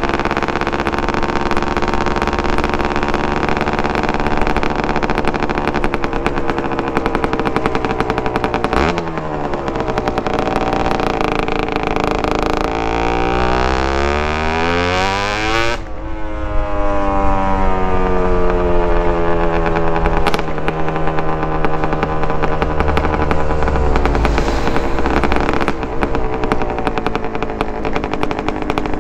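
Suzuki TS125R's single-cylinder two-stroke engine with a DEP exhaust, running while ridden. Its revs climb for several seconds and drop sharply at an upshift about halfway through, then hold steady again.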